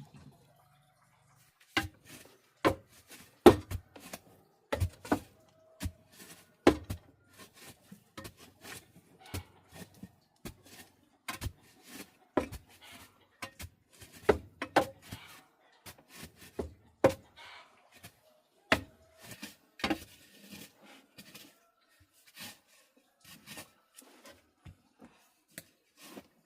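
An irregular run of sharp knocks and thuds of uneven loudness, often less than a second apart.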